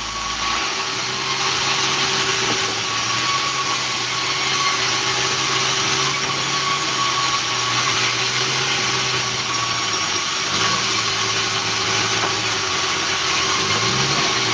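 Sawmill engine running steadily at a constant speed, with a slight dip and rise in pitch twice near the end.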